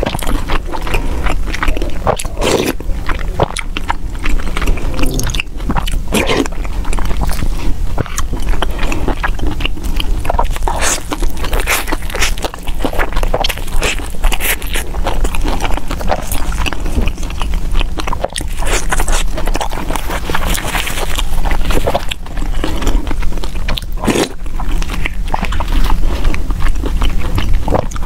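Chewing and biting into a rice ball, picked up close by a clip-on microphone, with a wooden spoon scraping in a plastic bowl. The small clicks and crackles of eating keep up without a break.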